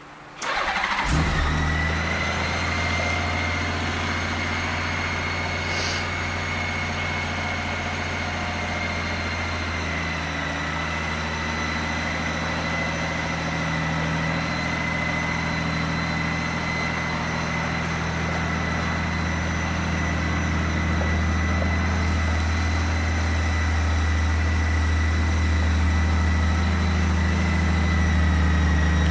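A 2014 Honda GL1800 Gold Wing's flat-six engine is cranked and catches under a second in, then idles steadily, with a faint high whine over it.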